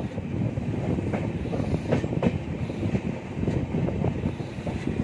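Passenger train running along the track, a steady low rumble with the wheels clacking over the rail joints every so often.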